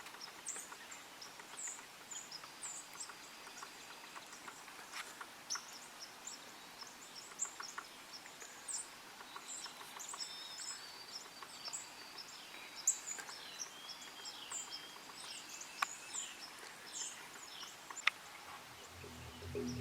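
Faint outdoor quiet with small birds chirping, many short high calls scattered throughout, and a few sharp clicks in the second half.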